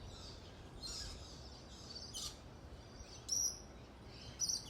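Birds chirping faintly in the background: short high-pitched calls about once a second over a low steady hum.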